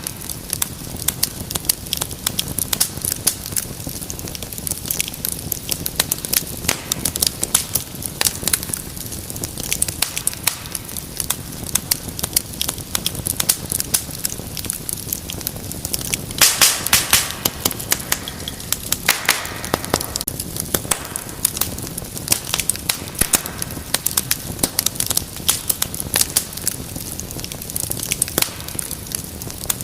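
Wood fire crackling and popping continuously over a low rumble of burning, with a brief louder run of hissing pops a little past halfway.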